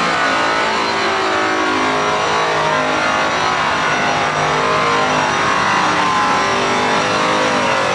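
Power polisher running at a steady whine, its pitch wavering slightly as the pad works against the surface while buffing a wheel.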